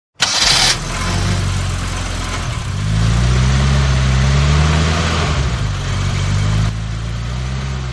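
An engine starts with a short loud burst, then runs, its pitch rising a few seconds in and easing back down before it cuts off suddenly.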